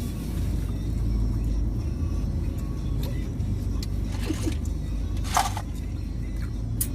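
Steady low hum of a Toyota Innova's 2.8-litre diesel engine idling, heard from inside the cabin. Two brief rustles come about four and five seconds in, and a sharp click comes near the end.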